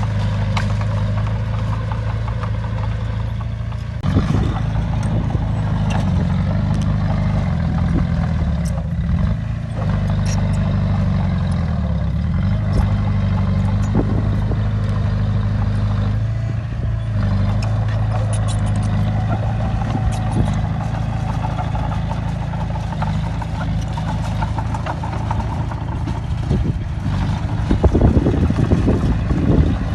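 Heavy diesel engine of an earthmoving machine running under changing load, its pitch shifting every few seconds, with scattered knocks and a louder spell of clanking near the end.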